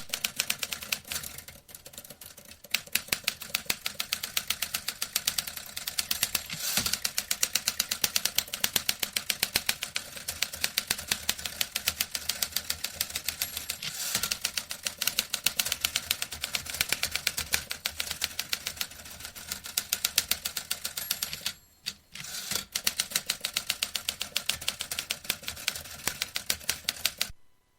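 Vintage manual typewriter being typed on at speed, a dense clatter of keystrokes many times a second. The typing pauses briefly a little over two-thirds of the way through, resumes, and stops just before the end.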